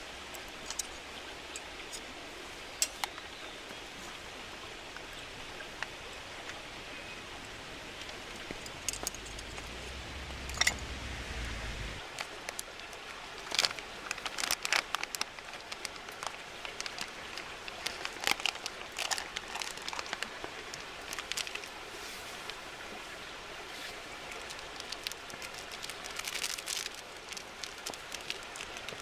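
Steady rain falling, with scattered sharp taps and clicks that come in clusters. A low rumble joins it a few seconds before the middle and cuts off abruptly.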